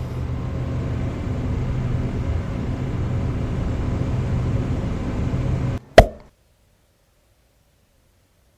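A steady low noise with a hum that cuts off abruptly about six seconds in, followed by a single sharp, loud pop.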